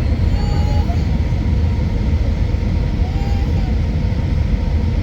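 Steady cabin roar of an Airbus A319 in flight, engine and airflow noise heavy in the low end, with faint murmur of voices under it.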